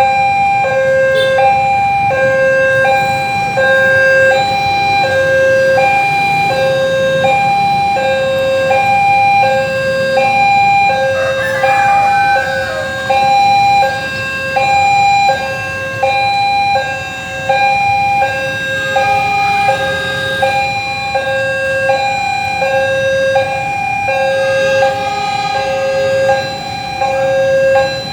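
Railway level-crossing warning alarm sounding a steady two-tone signal, switching evenly between a high and a low tone about once a second without change in pitch. A low rumble runs beneath it.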